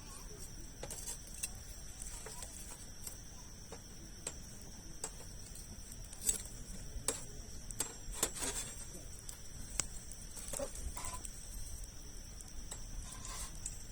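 Campfire of large logs crackling, with scattered sharp pops, several close together around the middle. A steady high-pitched tone runs underneath.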